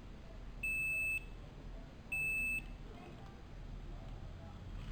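Digital multimeter's continuity buzzer beeping twice: two steady high-pitched beeps of about half a second each, a second and a half apart, each time the probes find a connected path while tracing which board pad is negative.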